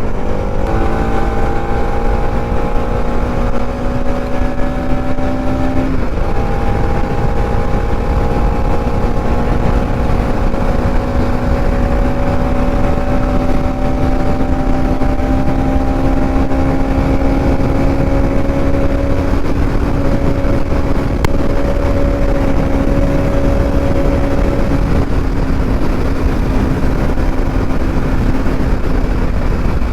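Bajaj Pulsar NS200's single-cylinder engine running at steady highway speed, its note creeping slowly higher, with a short break in the note about six seconds in. Wind rushes heavily over the microphone throughout.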